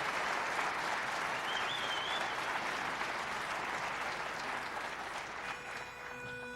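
Audience applause fading slowly. Near the end, one steady held note sounds, typical of a barbershop quartet's pitch pipe giving the key for the next song.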